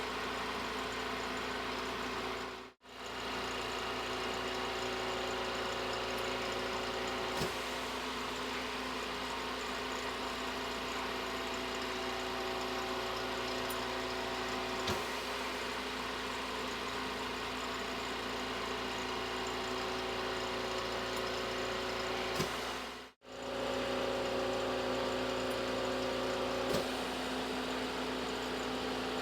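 Steady mechanical hum with several fixed tones, like a motor or engine running at idle. It cuts out to silence briefly twice.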